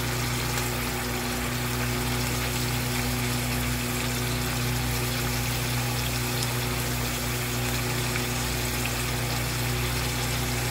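Mutton and sliced onions frying in oil in an open pressure cooker: an even sizzling hiss over a steady low hum.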